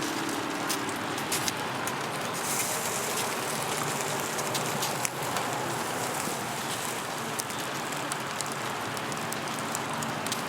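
Rain falling steadily, with many small scattered ticks through it.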